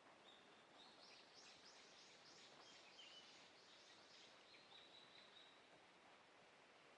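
Faint bird song: a quick series of high notes, about three a second, that runs for about three seconds and then stops, over a quiet outdoor hiss.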